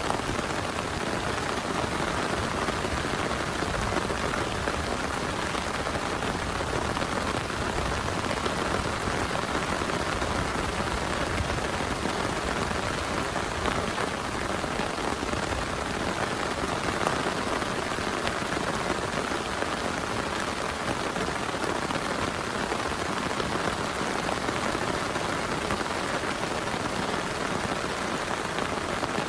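Heavy rain falling steadily, an even wash of rain noise with no letup.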